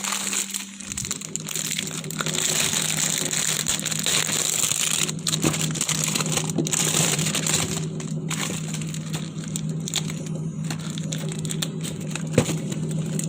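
Continuous crackling and crinkling, full of small clicks, with one sharper click near the end, over a steady low hum.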